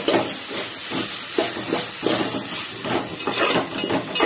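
Chopped tomatoes, onions and green chillies sizzling in hot oil in a pot while a spatula stirs them, scraping repeatedly across the pot bottom.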